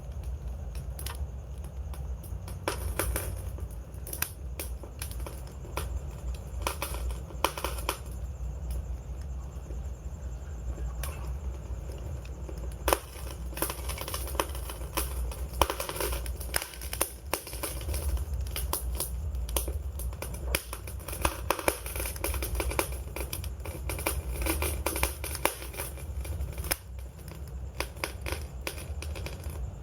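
Wood fire crackling and popping: dense, irregular snaps and clicks over a steady low rumble of burning.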